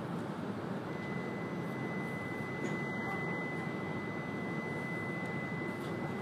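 E2-series Shinkansen running, heard from inside the passenger cabin as a steady rumbling rush. A thin, steady high pure tone starts about a second in and holds on.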